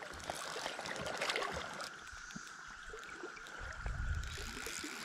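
River water trickling and splashing with scattered small clicks, over a steady droning chorus of periodical cicadas. A low rumble comes in about three and a half seconds in.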